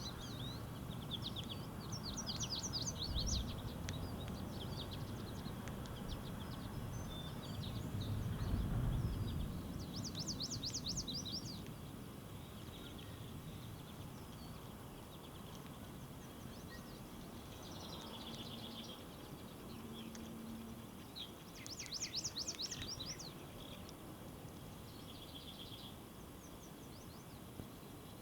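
Backyard songbirds singing and calling in short phrases of rapid buzzy trills and brief notes, repeated several times. A low background rumble is stronger during roughly the first twelve seconds.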